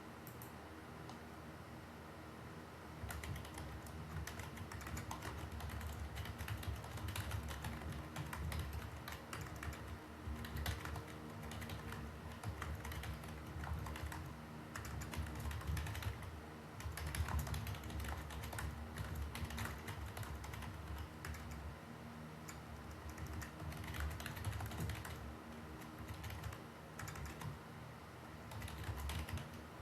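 Typing on a computer keyboard: irregular runs of key clicks, lighter for the first few seconds and then steady and busy.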